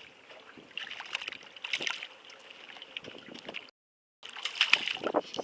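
Water sloshing around a small fishing boat, with scattered short knocks and rustles. The sound drops out completely for about half a second near the end.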